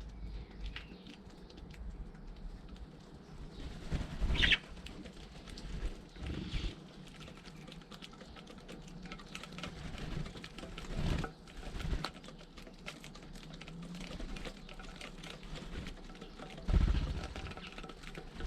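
Garden birds feeding right beside the camera: a scatter of light pecking taps and clicks, with a few louder low thumps, the loudest near the end.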